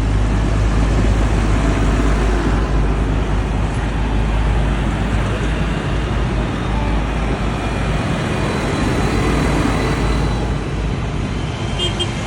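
Heavy vehicle engines running with a deep rumble in a continuous din, the rumble dropping away about two-thirds of the way through as a vehicle moves past.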